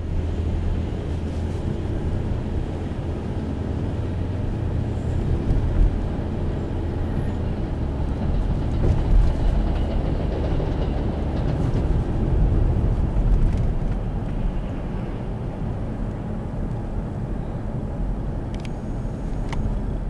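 Steady low rumble of congested street traffic, with a few slight swells along the way.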